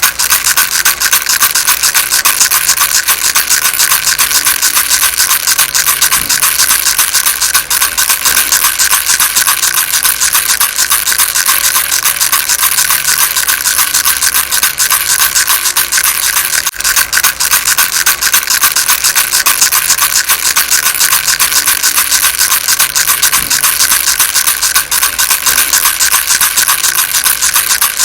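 Baby rattle shaken fast and without a break, a dense, even rattling rasp.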